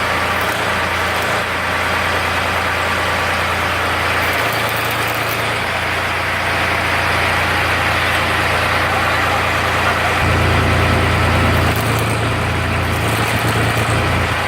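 Ford 3600 tractor engine running steadily as it drives a generator, a continuous deep hum with a rougher noise above it. The low hum grows louder about ten seconds in.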